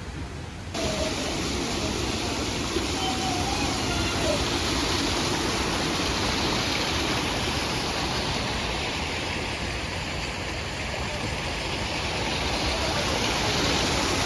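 Steady rushing of water, with distant indistinct voices mixed in. It starts abruptly a little under a second in, replacing a quieter hiss.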